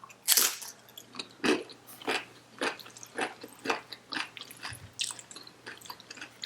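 A person chewing a mouthful of Chipotle burrito bowl, with wet mouth clicks in a steady rhythm of about two chews a second.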